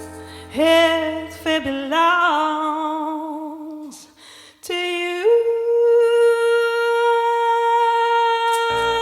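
A singer's wordless vocal ad-lib, sung with wide vibrato and almost no accompaniment, then sliding up to one long held note. Keyboard and guitar come back in near the end.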